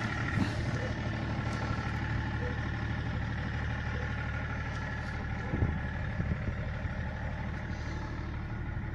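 BMW E39 530d's 3.0-litre straight-six diesel idling steadily, with a couple of light knocks just past halfway.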